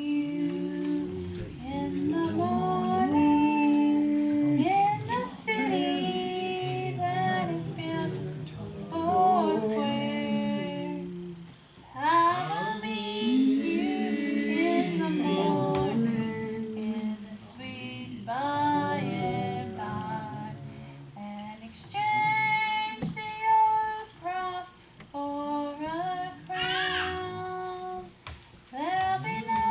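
A high voice singing a gospel song, with instrumental accompaniment underneath.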